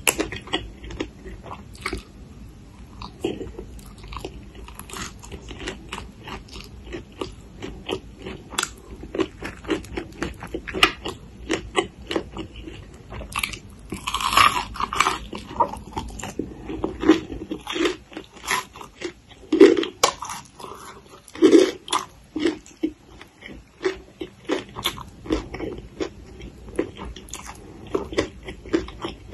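Close-miked chewing and crunching of raw green papaya salad and fresh green shoots, with many small wet chewing clicks. The loudest crunchy bites come about halfway through and twice more a few seconds later.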